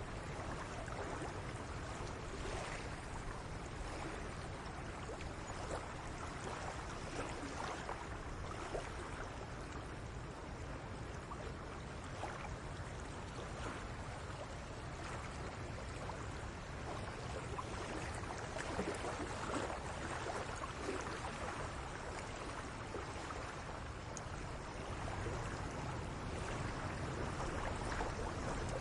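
Steady rush of flowing water, with a low rumble underneath, growing slightly louder near the end.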